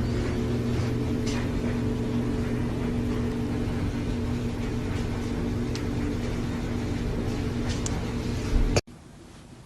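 Steady mechanical hum of an engine or motor, with a low drone and a few faint clicks, cut off abruptly near the end, after which only faint wind-like noise remains.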